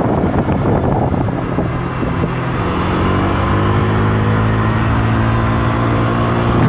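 Wind rushing over the microphone on a moving motor vehicle. From about two and a half seconds in, the engine comes through as a steady low hum whose pitch dips slightly and then holds.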